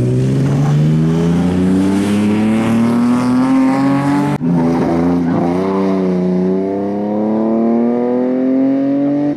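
BMW 325i E36 rally car's straight-six engine at high revs under hard acceleration, its pitch climbing steadily. About four seconds in the sound breaks off suddenly, and the engine is heard again, dipping briefly and then climbing in pitch once more.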